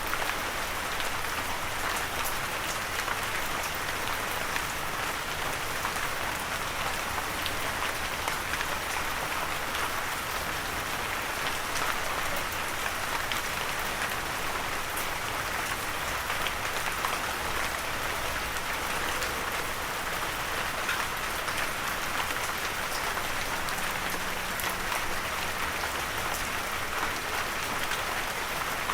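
Steady light rain falling, with many small drops pattering on a surface; no thunder.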